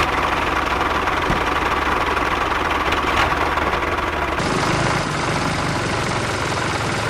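A motor running steadily at an even speed, with a fast, regular pulsing chug. Its tone changes slightly about four seconds in.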